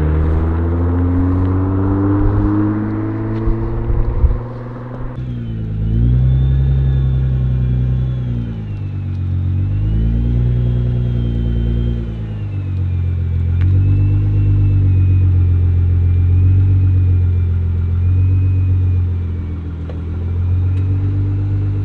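Nissan GT-R R35's twin-turbo V6 running through an HKS aftermarket exhaust, essentially a muffler delete with two resonators, while driving: a deep rumble whose pitch climbs and drops again and again with throttle and gear changes. Wind and road rush sits over it for the first few seconds, then stops suddenly.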